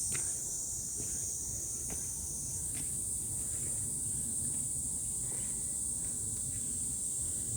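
Steady, high-pitched insect chorus, with a low rumble underneath and a few faint clicks.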